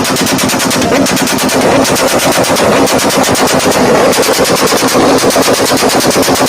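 Sport motorcycle engine and exhaust giving a loud, rapid, even rattle of pops, about ten a second, over a steady engine tone.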